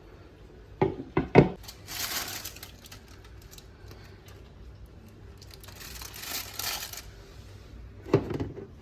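Household handling sounds: three quick knocks of something being set down about a second in, two spells of crinkling like packaging being handled, and another knock near the end.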